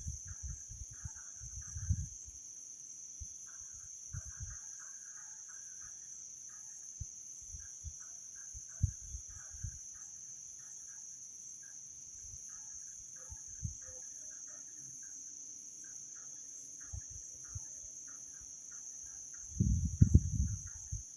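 Crickets chirring in a steady high drone, with scattered fainter chirps. Short low thumps break in now and then, with a louder cluster near the end.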